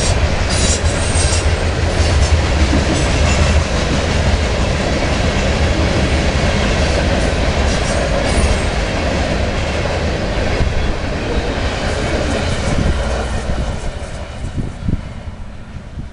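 HO scale model freight train running past: a steady low rumble with short clicks from the wheels and track, fading away over the last few seconds.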